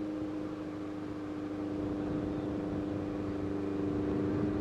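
Motorcycle engine running at a steady cruising speed, a constant hum with wind and road noise, heard from the rider's own bike.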